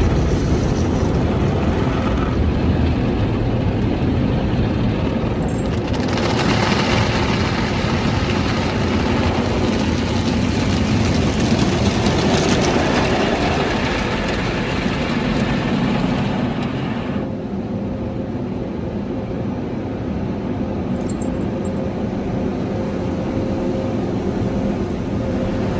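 Automatic car wash running: a steady mechanical rumble, with a strong hiss of spraying water that comes in about six seconds in and drops away sharply about eleven seconds later.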